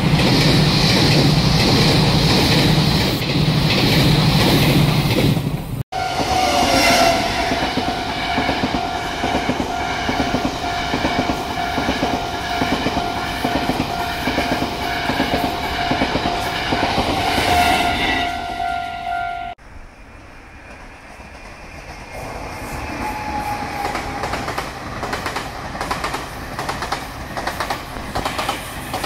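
Taiwan Railways trains passing in three cut-together shots. First a loud rush of a train going by. Then a level-crossing warning bell ringing rapidly as a train rolls through the crossing, and after a sudden drop in level a train running past with steady clickety-clack of wheels over rail joints.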